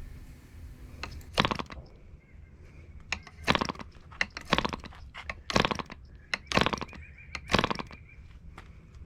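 Webra 1.5cc model diesel engine being flipped over by hand without firing: six short, sharp bursts, one near the start and then about one a second, as the engine turns over on compression while drawing hardly any fuel.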